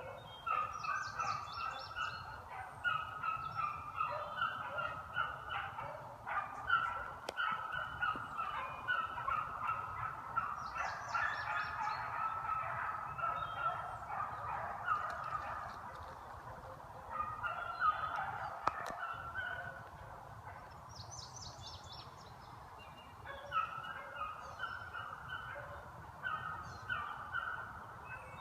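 A pack of beagles baying in full cry, many overlapping voices, as hounds do when running a rabbit's scent trail. The calls ease off for a few seconds about two-thirds of the way through, then pick up again.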